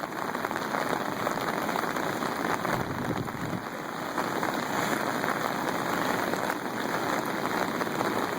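Steady, even hiss of water with a fine pattering texture, like rain or floodwater rushing, with no change in level throughout.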